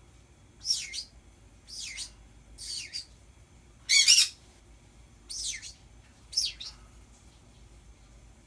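Pet birds giving short, high calls that sweep downward, six in all at about one a second, the loudest and harshest about four seconds in.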